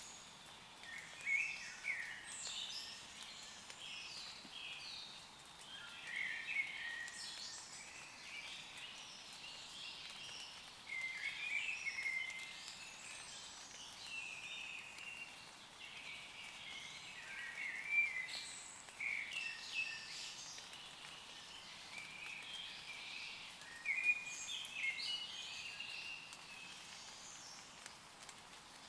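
Woodland songbirds singing, with many short chirps and warbled phrases coming one after another, over a faint steady hiss of light rain falling on leaves.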